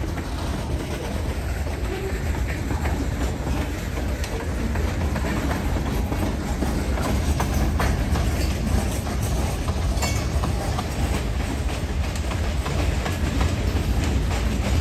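Freight train's hopper cars rolling past close by, steel wheels clicking and clacking over the rail joints over a steady low rumble.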